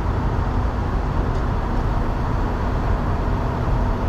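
Steady low rumble of an idling heavy diesel truck engine.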